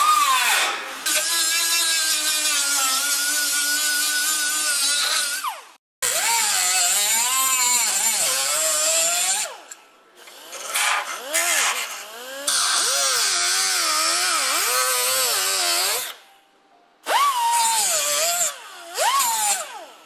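Power grinder working the rusted steel of a car's rocker panel, running in four bursts with short pauses between; its pitch dips and recovers as it is pressed into the metal, over a high hiss.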